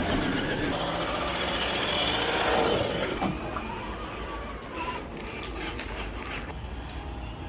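Scale RC crawler truck driving over rough ground: its electric motor and gears whine under dense crunching and scraping from the tyres. The noise is heavy for about the first three seconds, then drops to a quieter whine with a few sharp ticks.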